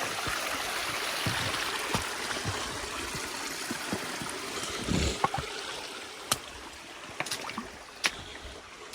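Small creek flowing over bedrock in a steady rush of water that gradually fades. There is a dull knock about five seconds in and a few sharp clicks near the end.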